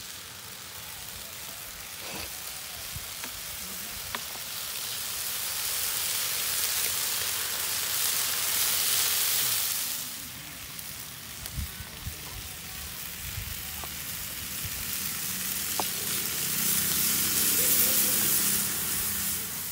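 Food frying in hot oil: a steady sizzle that swells louder twice, about nine seconds in and again near the end, with a few faint clicks.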